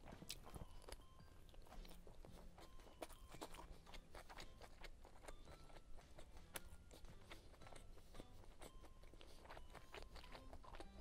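Faint mouth sounds of chewing a soft meat roll, a flatbread wrap with vegetables and lotus root, heard as many small irregular clicks.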